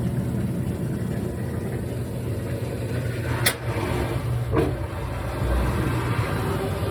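GE top-load washing machine running with a maximum load that includes a thick comforter: a steady motor hum, with two short knocks about a second apart near the middle.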